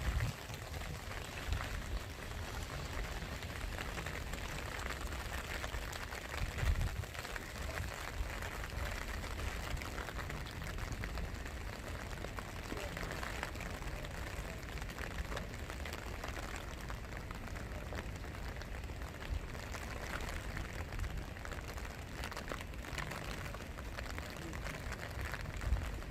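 Steady rain falling, the patter of many raindrops on hard surfaces, over a low rumble with a few dull thumps.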